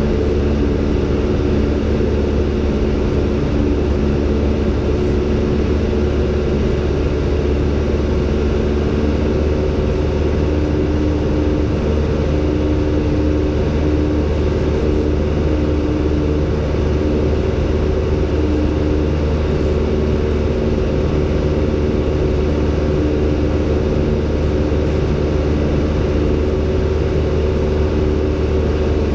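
Robin DR400-120's four-cylinder Lycoming piston engine and propeller running steadily, heard from inside the cockpit as an even drone with a low hum.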